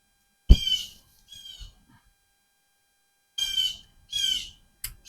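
Four short, high-pitched animal calls in two pairs, each under half a second, with a sharp knock at the start of the first call.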